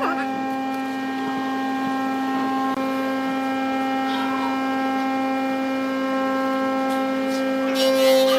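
Wood lathe motor running with a steady electric hum; near the end come rough scraping streaks, typical of a turning tool cutting the spinning wood.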